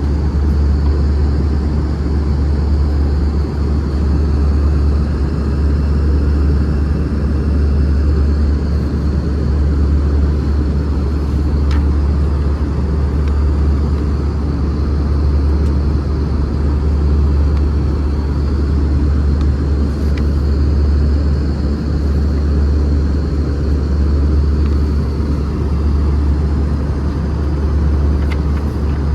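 Steady cabin noise of an Airbus A320 in flight: a deep, even roar of the engines and airflow, with a faint wavering high whine over it.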